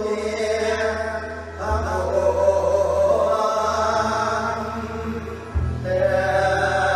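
Mor lam singing: a voice drawing out long, wavering sung notes over a sustained musical accompaniment, the bass note of which shifts twice as new phrases begin.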